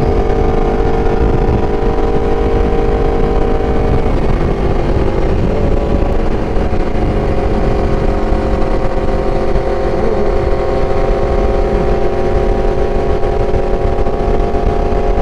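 Aprilia RSV4's V4 engine running steadily on the move, under heavy wind rush on the microphone; the engine note shifts about four seconds in.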